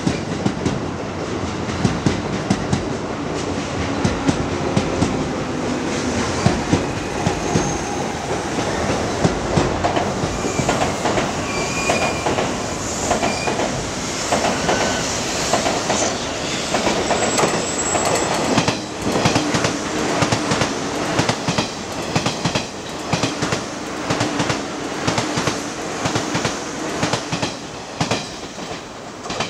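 Electric commuter trains running on the tracks beside a station platform: a continuous clatter of wheel clicks over rail joints, with short high wheel squeals now and then in the middle.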